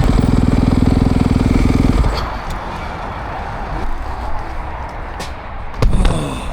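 Four-stroke motocross bike engine running steadily, then shut off suddenly about two seconds in. A sharp thump near the end.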